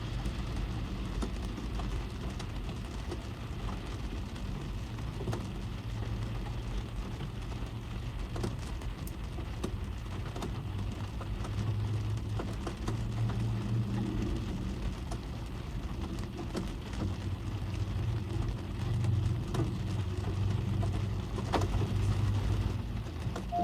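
Rain falling on a car's roof and windshield, heard from inside the cabin: a steady patter with scattered louder single drops and a low rumble underneath.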